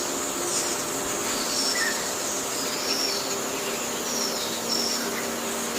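Forest ambience: a steady high insect drone with short, high bird chirps every second or so.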